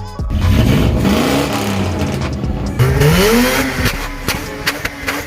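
A loud car engine accelerating hard. The revs climb, fall back at a gear change about two seconds in, and climb again higher, with many sharp clicks through the noise.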